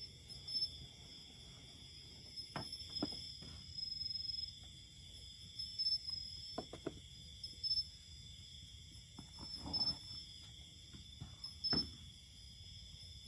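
Steady high-pitched insect chorus, crickets or cicadas, pulsing in the upper band. Scattered short knocks and a brief scraping rustle are heard now and then.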